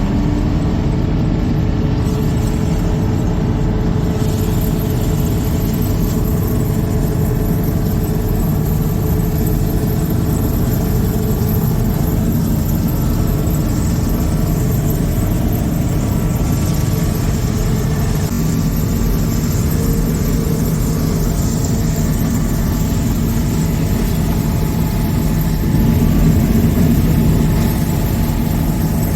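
Combine harvester running steadily under load, with a low engine hum and a thin steady whine; it gets a little louder for a couple of seconds near the end.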